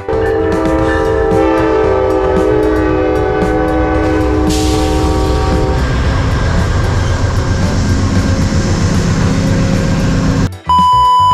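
Passenger train led by two GE P42 Genesis diesel locomotives passing close by: an air horn sounds a loud, steady multi-note chord for about six seconds. After the horn the train rolls past with a steady rumble and rail hiss, which cuts off near the end. A short electronic beep follows it.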